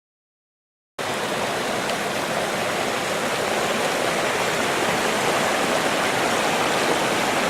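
Steady rushing of a rain-swollen creek running high, starting about a second in.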